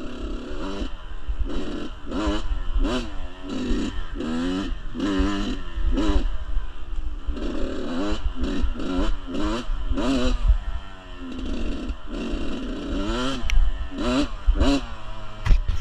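Kawasaki KX85 two-stroke dirt bike engine revving up and down over and over, about once a second, as it is ridden along a rough trail, with wind rumbling on the microphone.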